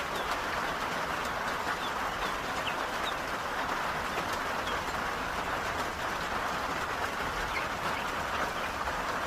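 Heavy rain falling steadily, a dense even hiss, with a few faint short bird chirps over it.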